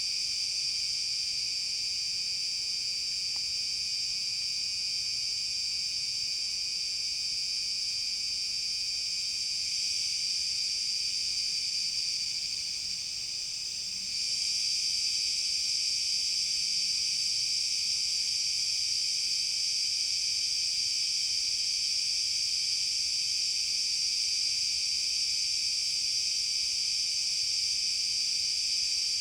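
Dense, steady high-pitched chorus of forest insects buzzing, dipping briefly about twelve seconds in and then swelling louder about two seconds later.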